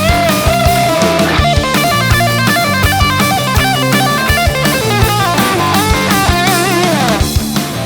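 Electric guitar played through a BSM HS-S silicon-transistor treble booster into a valve amp: a lead line of bent and wavering held notes and quick runs, ending in a long slide down, over a steady drum beat.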